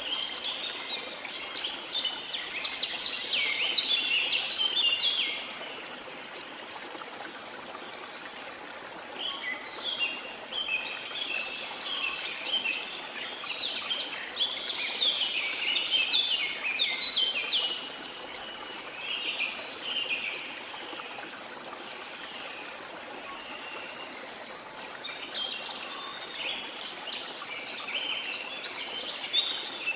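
Birds singing in quick chirping phrases over a steady background of running water from a waterfall. The song comes in three bouts with quieter pauses between them, when only the water is heard.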